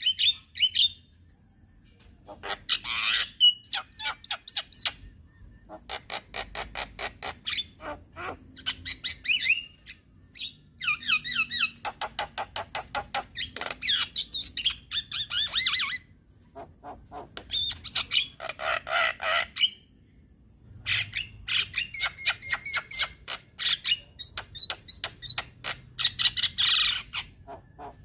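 Javan myna singing in full voice: long chattering phrases of rapid clicks and harsh notes mixed with whistles, broken every few seconds by short pauses.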